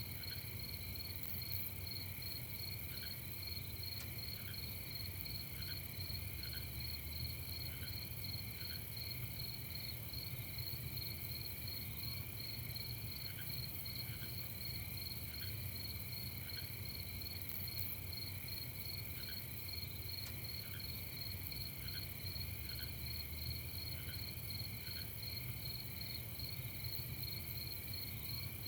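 A chorus of crickets chirping continuously in fast, even pulses, with a second, lower call in short notes repeated in small groups. A steady low rumble sits underneath.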